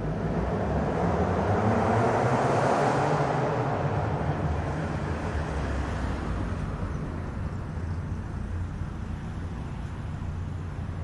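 Fiat Uno 1100's four-cylinder engine heard through its exhaust, a loud, wild exhaust tone. It swells to its loudest about two to three seconds in, then eases off and settles to a steadier, lower running note.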